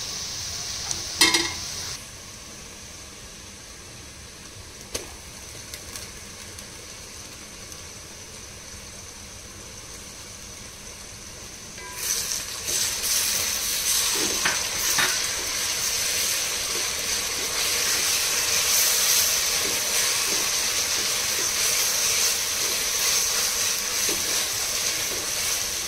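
Sliced onions frying in oil in a pan, a steady sizzle. About halfway through the sizzle turns much louder and fuller, as ginger-garlic paste goes into the hot oil, with a few light knocks of the stirring spoon.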